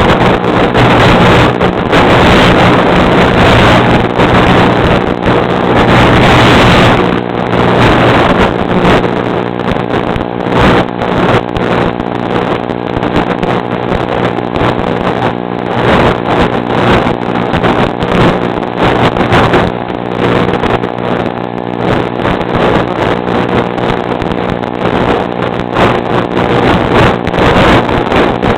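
A motor running at a steady speed, with wind rushing and buffeting the microphone.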